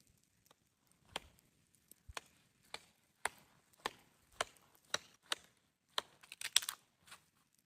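Hatchet or axe chopping wood: a run of sharp strikes about two a second, ending in a quick cluster of smaller knocks near the end.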